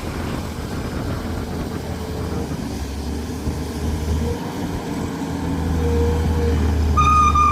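Heavy engine running at low speed, a steady low rumble that grows louder in the last couple of seconds. A high, choppy tone starts just before the end.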